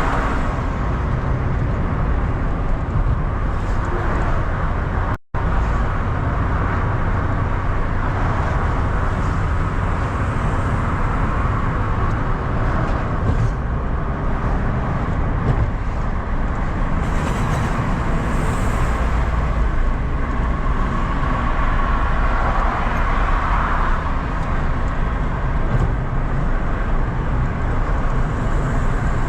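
Steady in-cabin road and engine noise of a car driving through city streets, mostly low rumble and tyre hiss. The sound cuts out completely for a split second about five seconds in.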